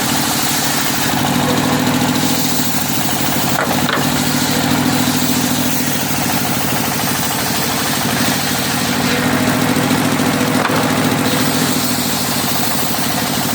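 Engine of a circular sawmill running steadily, growing a little louder twice for a few seconds.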